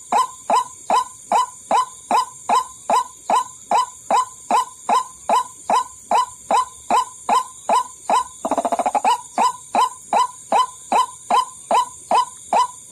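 White-breasted waterhen calls used as a bird-trapping lure: a short falling call repeated evenly about two and a half times a second, broken about eight and a half seconds in by a fast rattling trill of about half a second, over a steady high hiss.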